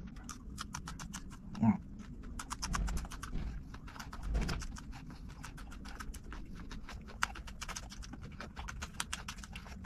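Close-up crunching and chewing of raw green chili peppers: many crisp, irregular crunches as they are bitten and chewed. A brief vocal sound about one and a half seconds in is the loudest moment, and a couple of dull low thumps follow.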